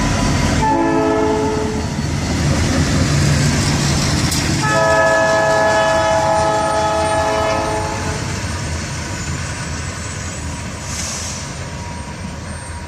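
Passing train's locomotive horn sounding a short blast, then about four seconds in a longer blast of about three seconds, over the steady rumble of the train rolling by. The rumble fades gradually after the second blast as the train moves off.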